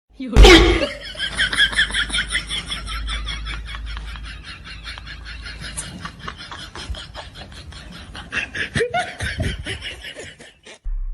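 A person laughing hard and at length, a long run of rapid, evenly repeated ha-ha pulses.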